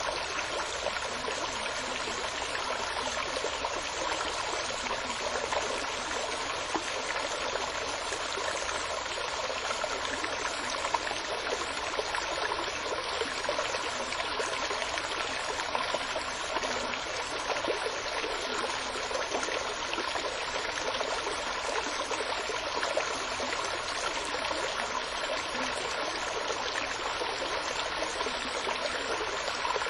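Running water flowing steadily and evenly.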